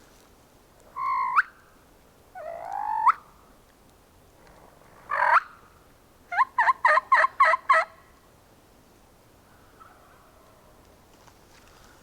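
Wild turkey gobbling: a few separate loud calls, then a rapid rattling gobble of about eight quick notes past the middle.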